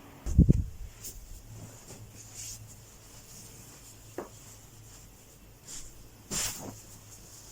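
Handling noises while folding towels: a loud soft thump about half a second in, a few light clicks, and a short fabric rustle near the end.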